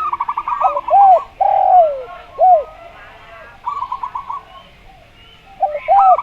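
Zebra dove song: a quick stuttering run of short, higher coos, followed by a few lower looping coos and one long falling coo. A quieter run of short coos comes in the middle, and the whole phrase starts again near the end.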